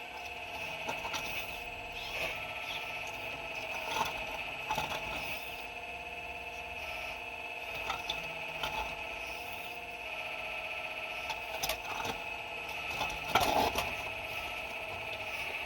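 4200XL remote-control excavator's small electric motors whining steadily while the bucket digs, with scattered scrapes and clicks of rock against the bucket and a louder clatter near the end.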